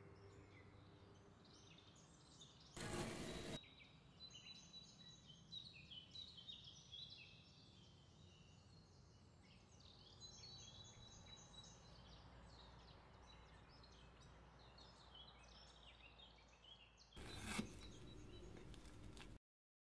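Faint bird chirping: many short, high chirps and trills that come and go. Two brief bursts of noise cut in, one about three seconds in and a longer one near the end.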